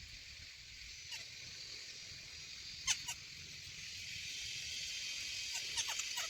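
Shrike calls: a few short, sharp, downward-sliding chirps, a pair about three seconds in and a quick cluster near the end, over a steady high hiss.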